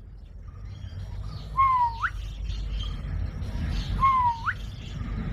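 Green parrot giving two short calls about two and a half seconds apart, each dipping in pitch then sweeping sharply upward, over a low steady background hum.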